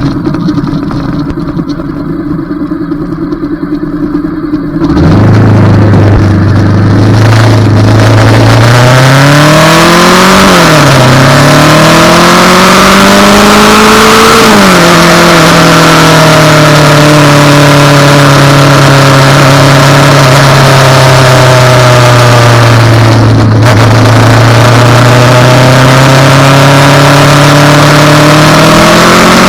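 Motorcycle engine, quieter and steady at first, then loud from about five seconds in as the bike pulls away. Its pitch climbs and drops back at two gear changes, holds steady at a cruise, and rises again near the end.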